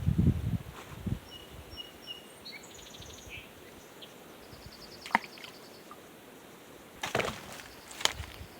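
Footsteps and brush being pushed through: low thumps at the start, a single sharp twig snap about halfway, and a cluster of rustling cracks of twigs near the end. Small birds chirp and trill briefly in between.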